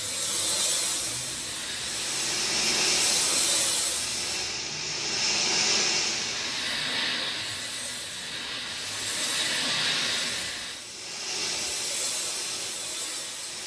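Steady rain falling, a dense hiss that swells and eases every two to three seconds.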